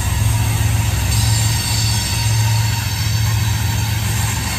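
Freight train of covered hopper cars rolling past on the rails: a steady low rumble from the wheels and cars, with faint high-pitched tones above it.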